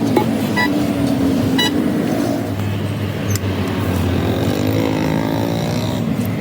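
A motor running steadily, its pitch wavering and sliding about three to six seconds in, with two short sharp ticks about half a second and a second and a half in.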